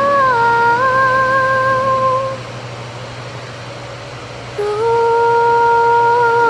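A singer holds long notes in a Thai song, with a slight vibrato. The first note steps down and stops about two seconds in. After a short gap over a steady low hum, a second long note begins near the end.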